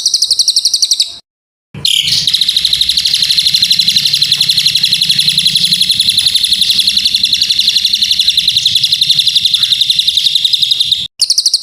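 Bird-song training (masteran) recording: a songbird's fast, evenly repeated high chirps, many a second, running as a steady trill. It cuts out abruptly for about half a second a second in and again briefly near the end, where the looped recording is spliced.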